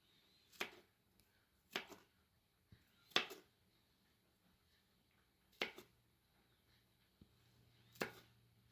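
Five sharp knocks at uneven intervals, one to two and a half seconds apart.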